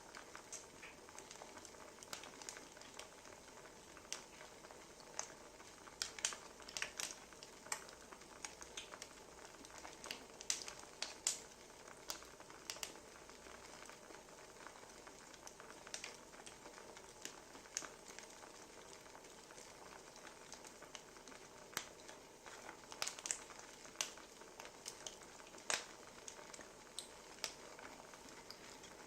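Wood fire crackling softly: a low steady hiss with irregular sharp pops, which come thicker in a few short clusters.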